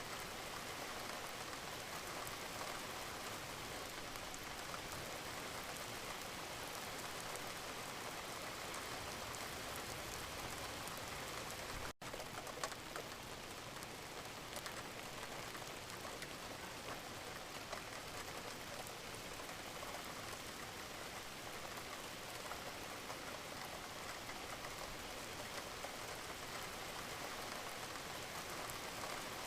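Steady rain falling, with many individual drops ticking on a surface through the even hiss. The sound cuts out for an instant about twelve seconds in, then carries on.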